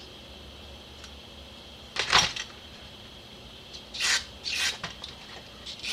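Short hissing bursts of aerosol carburetor cleaner sprayed into the carburetor's passages: a burst about two seconds in, then two more close together near four and four and a half seconds.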